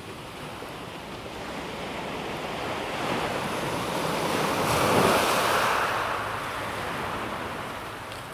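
Calm sea waves on a pebble beach: one wave swells, breaks and washes over the pebbles, loudest about five seconds in, then fades.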